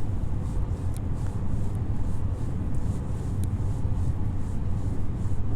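Steady low rumble of a moving car, its engine and road noise heard from inside the cabin.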